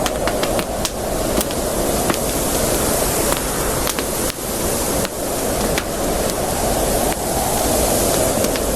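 Campfire burning, wood crackling with irregular sharp pops over a steady hissing rush.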